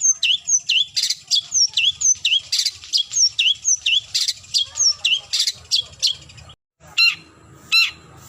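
Long-tailed shrike calling to challenge a rival: a fast run of sharp down-slurred notes, about three a second, then after a short break about six seconds in, harsh rasping calls about once a second.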